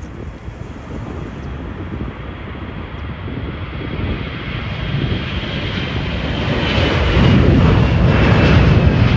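Jet airliner's engines, a steady high whine over a deep rumble, growing steadily louder and loudest near the end.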